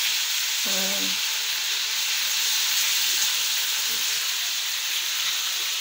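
Chicken breast fillets frying in hot oil in a pan, a steady sizzle. A brief voice sounds about a second in.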